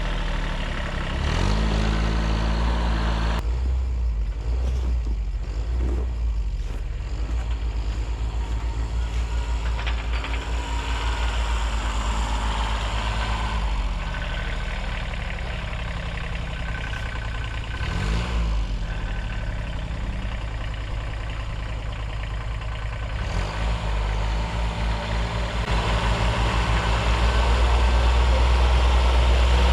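Small diesel tractor engine of a 1978 Kubota B6100 running steadily, its engine speed dipping and rising a few times and growing louder near the end.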